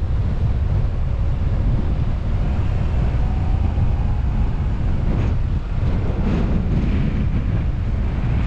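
Wind buffeting the microphone of a car-mounted action camera over the low rumble of the moving car, a loud steady noise with no clear engine note.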